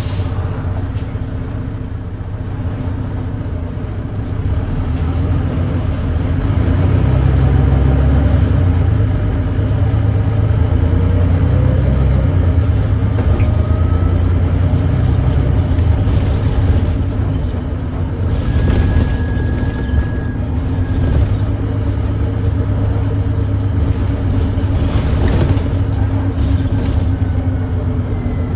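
Volvo B9TL double-decker bus's Volvo D9B 9.3-litre diesel engine running under load, with its note rising and falling through the ZF automatic gearbox's shifts; the engine gets louder about five seconds in. The engine has a thrashy sound from an exhaust leak.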